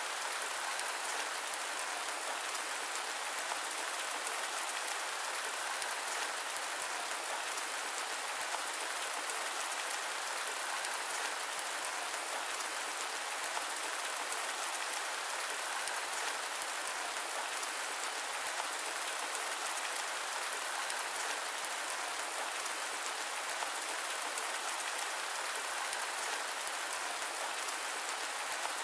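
Steady rain falling, an even hiss with no low rumble and no thunder.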